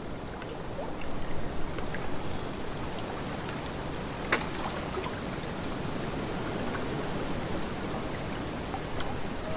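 Wind and lake waves making a steady wash of noise, a little louder for a moment about a second in, with a few faint ticks and one sharper tick about four seconds in.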